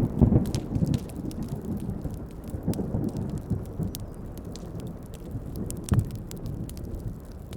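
A low roll of thunder fading out over the first second or so, over steady heavy rain, with the sharp snaps and crackles of a wood fire throughout and one louder pop about six seconds in.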